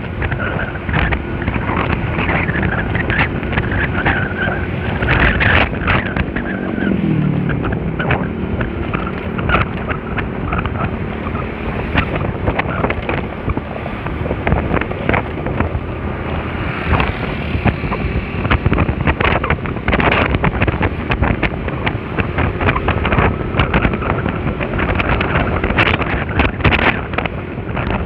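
Wind buffeting the microphone over the running engine and road noise of a Honda Spacy scooter on the move, with a falling engine tone about seven seconds in.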